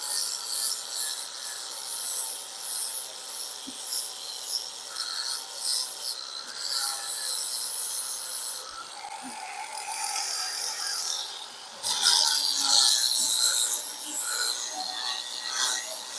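40-grit sandpaper on a long sanding board rasping back and forth over body filler on a car's wheel lip, in uneven strokes.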